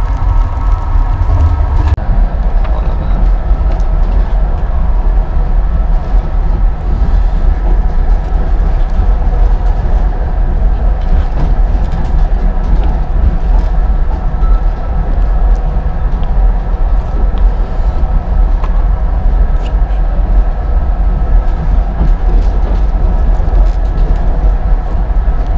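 Passenger train running, heard from inside the carriage: a loud, steady low rumble with scattered faint clicks.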